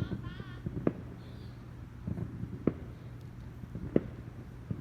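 Neighbourhood fireworks going off: three sharp bangs a second or two apart, with a few fainter pops between them.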